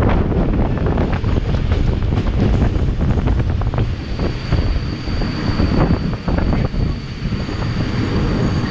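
Moving train heard from a coach window, with wind buffeting the microphone over the rumble and irregular knocks of the wheels on the track. A thin, steady high whine comes in about four seconds in.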